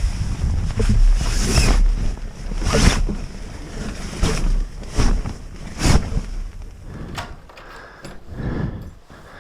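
Wind buffeting the camera microphone in a heavy low rumble that eases after about six seconds, with short swishing noises roughly once a second over it.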